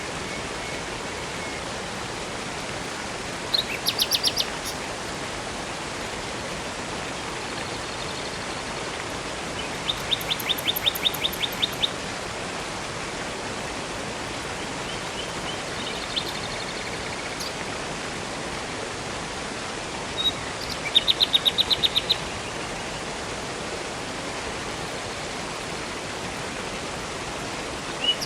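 Steady rush of flowing river water and a waterfall, with a songbird singing three short, fast trills of repeated high notes (about 4 s, 10 s and 21 s in) and a few thin single whistles between them.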